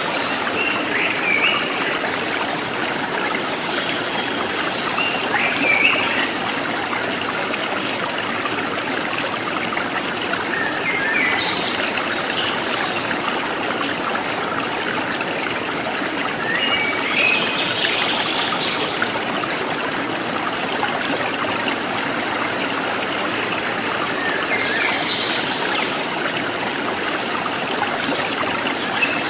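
Small stream trickling and babbling steadily, with a wild bird giving short chirping phrases about every six seconds.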